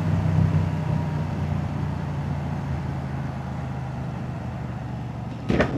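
Moto Guzzi V-twin motorcycle engine and exhaust running steadily at an even pitch, easing slightly in level. A brief noisy sound cuts in near the end.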